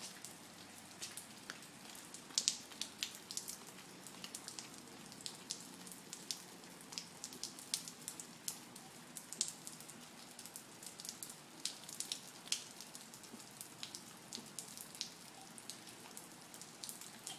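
Rain falling: a steady hiss with irregular sharp ticks of single drops landing close by.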